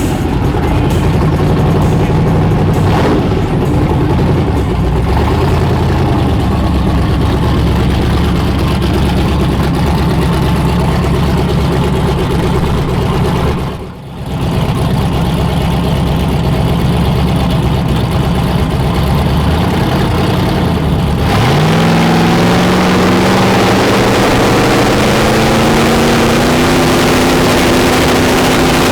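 Car engine running steadily, then from about two-thirds through accelerating with its pitch rising steadily. There is a short dip in loudness near the middle.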